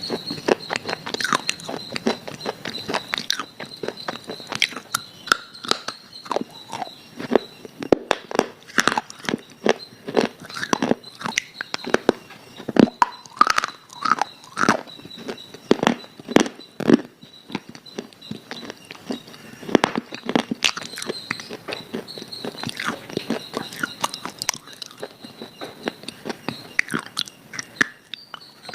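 Biting and chewing something crunchy close to the microphone: many sharp, irregular crunches, several a second. A steady thin high tone runs behind them.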